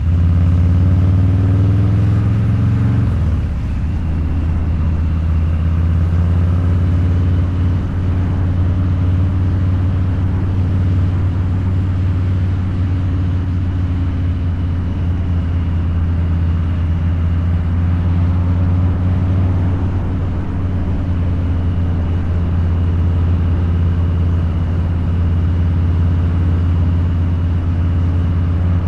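Harley-Davidson Low Rider's 129 ci V-twin engine with a Two Brothers Racing exhaust, running under way at a steady cruise. The note eases slightly about three seconds in, then holds steady.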